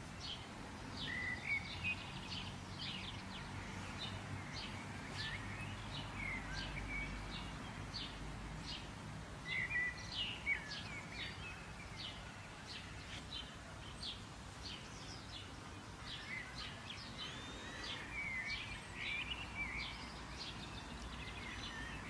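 Songbirds chirping: many quick, high chirps and a few short whistled slurs, over a steady faint low rumble of outdoor background noise.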